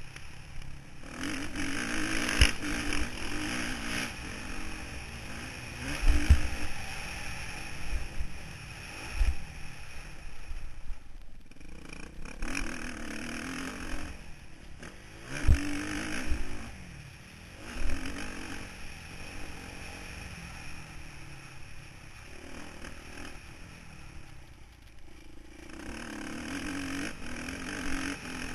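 Motocross bike engine recorded by a camera mounted on the bike, revving up and easing off repeatedly through a lap of the track. Several heavy low knocks come through as the bike hits bumps and lands, and twice the engine note drops away briefly.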